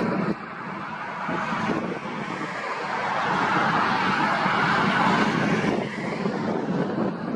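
Jet airliner engines running, with wind buffeting the microphone. The noise drops suddenly just after the start, builds to a peak around the middle and eases off near the end.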